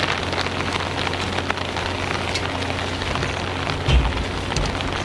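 Heavy rain falling, a steady hiss full of small drop hits, over a steady low hum. A brief low thump comes about four seconds in.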